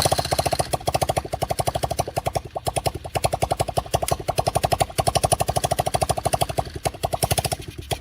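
Small ATV engine running on its own with a rapid, even pulse of about ten beats a second, then cutting off suddenly near the end. It has been hot-wired past its starter and key switches to run.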